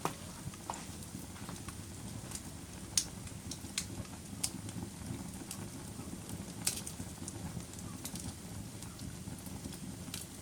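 Campfire burning: a steady low rush of flame with sharp wood crackles and pops scattered irregularly through it, a few of them louder.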